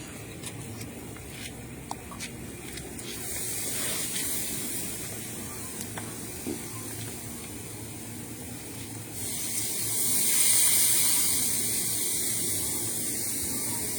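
A steady hiss that comes in about three seconds in and grows louder about nine seconds in, with a few faint clicks in the first seconds.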